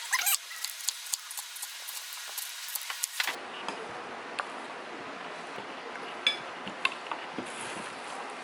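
A run of light clicks and taps over the first three seconds, one with a brief rising squeak. After an abrupt change about three seconds in, a steady hiss with a couple of isolated clicks.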